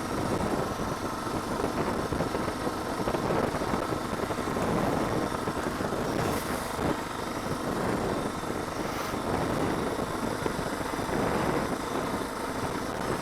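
Suzuki DR650 motorcycle being ridden: engine and road noise, steady throughout.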